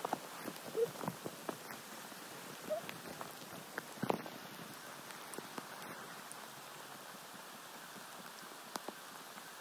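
Steady rain pattering on a pond and the surrounding leaves, with scattered sharp taps and knocks during the first six seconds, the loudest about four seconds in.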